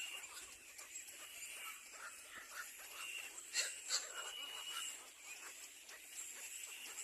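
Baby birds making rapid, short, wheezy cheeping calls, with two sharp clicks about three and a half and four seconds in.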